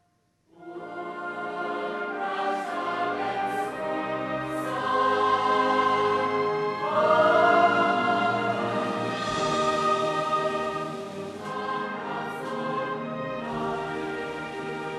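Music: a choir singing with orchestral accompaniment, beginning after a brief silence about half a second in.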